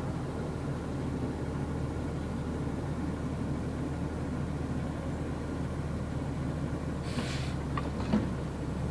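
Garbage truck's diesel engine running steadily, with a short hiss about seven seconds in and a sharp knock just after.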